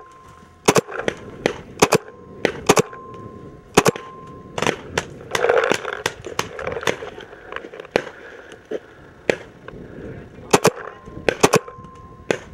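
Paintball markers firing irregular single shots: a run of sharp pops through the first few seconds, a lull, then another cluster near the end.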